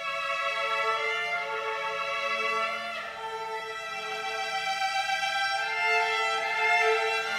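Violin playing a melody of long, held notes.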